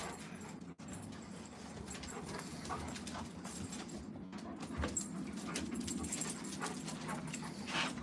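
Two Alaskan Malamutes playing together: faint scuffles and short clicks, with a low uneven dog rumble that builds from about two seconds in.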